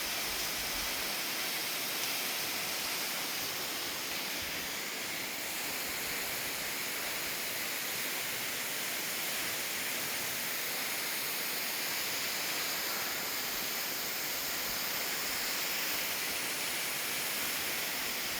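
Steady rushing of water, the even hiss of a waterfall or fast creek.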